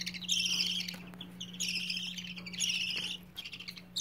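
Baby budgerigars giving raspy, buzzy calls, three in a row, each about half a second long.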